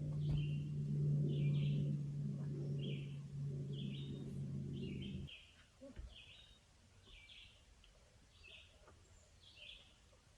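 A bird calling over and over, short high chirps about once a second. Under it, for the first half, a steady low hum that cuts off suddenly about five seconds in.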